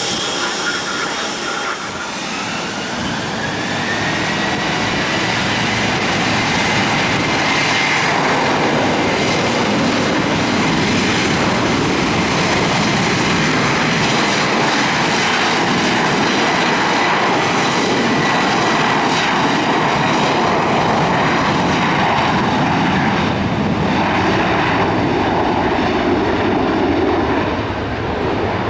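Jet airliner engines at takeoff power: a loud, steady roar with a high whine that rises in pitch over the first few seconds.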